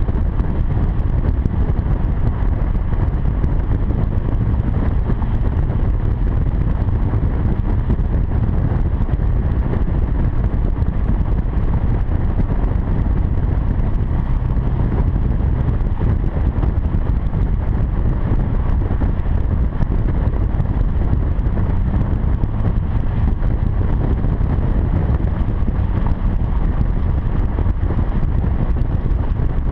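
Exhaust of a 2007 Acura TL's V6 through a quad-tipped catback with Magnaflow mufflers, a steady low drone at even speed, heard from a GoPro at the exhaust with wind rushing over the microphone.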